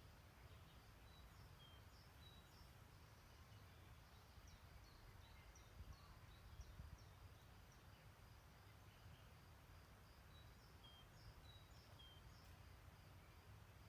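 Faint distant birdsong: scattered short chirps and thin whistled notes, busiest a few seconds in, over a low steady rumble.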